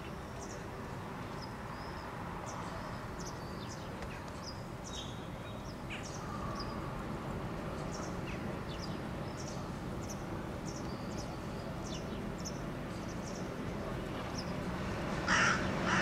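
Small birds chirping, with short high notes scattered throughout. Just before the end comes a single louder, lower bird call.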